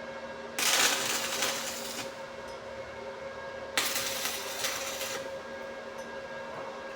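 Two short bursts of arc welding, each about a second and a half, the sputtering of tack welds being laid on a padlock. A steady electrical hum runs underneath.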